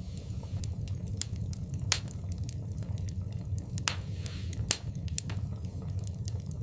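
Wood fire burning in a fireplace: a steady low rumble of the flames with irregular sharp crackles and pops, a louder pop about two seconds in and another near the middle.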